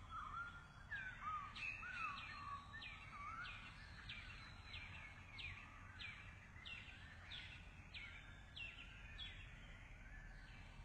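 Small bird calling: a short high note that falls in pitch, repeated about every two-thirds of a second, with lower wavering notes in the first couple of seconds. A faint low rumble of background noise lies underneath.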